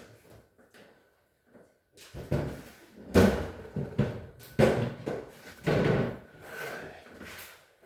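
Repeated knocks and bangs with rough scraping between them, starting about two seconds in: a part frozen in place in a refrigerator freezer being banged and worked loose.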